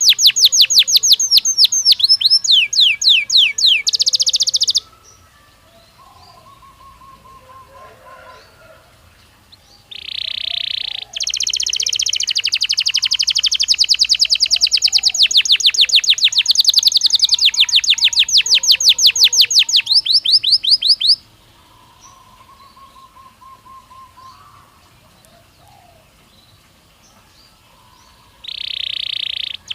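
Belgian canary singing in loud rolls of fast, rapidly repeated trilling notes. One phrase stops about five seconds in, a long one runs from about ten to twenty-one seconds, and a third begins near the end. Faint, softer chirps come in the pauses.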